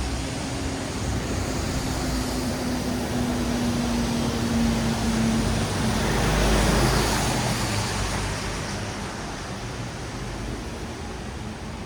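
A vehicle passing on a wet road: tyre hiss on wet asphalt swells to a peak a little past halfway and then fades, with a low engine hum that drops slightly in pitch as it goes by.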